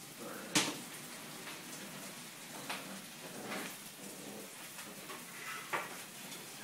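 A puppy playing with a mop: continual scuffling and rustling, broken by three sharp knocks, the loudest about half a second in.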